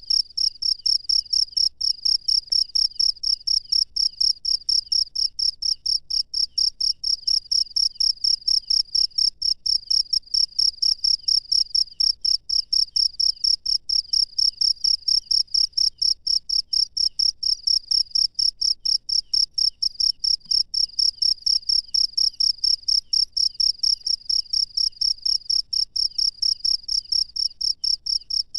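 A cricket chirping steadily in an even, unbroken rhythm of about three high-pitched chirps a second.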